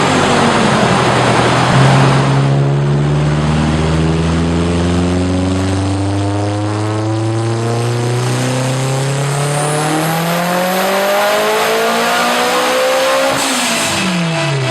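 Mitsubishi Lancer Evolution's turbocharged four-cylinder, tuned to 631 bhp, on a dyno pull: the revs climb slowly and steadily for about eleven seconds, then the throttle is lifted near the end and the revs fall away quickly.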